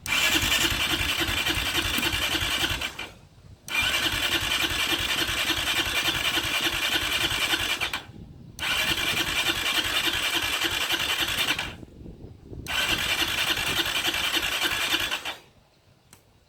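Yamaha Raptor 660R's single-cylinder engine being cranked on the electric starter in four attempts of about three to four seconds each, the starter whining and the engine turning over in a fast even rhythm without ever catching: a cranks-but-won't-start condition.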